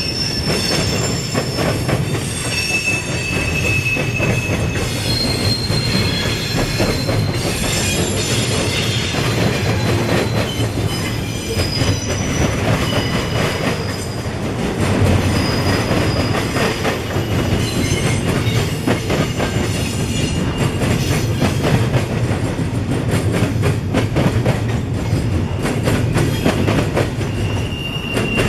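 Freight train rolling past with a steady rumble and clatter of cars on the rails, and wheels squealing on and off in short, high-pitched tones throughout.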